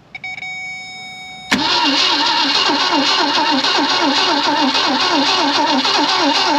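The 1965 Ford Thunderbird's V8 is being cranked on the starter after fuel was poured into the carburetor bowl. It turns over in a steady, even rhythm but does not catch. About a second and a half in, after a short high steady tone, the cranking cuts in suddenly and loudly.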